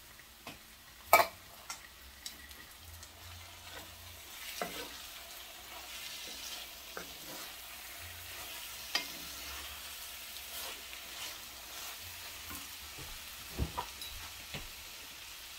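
Vegan ground beef, onions and diced tomatoes sizzling in a cast-iron skillet while a wooden spoon stirs and scrapes through them. The sizzle grows a little louder after the first few seconds, with scattered clicks of the spoon and a sharp knock about a second in.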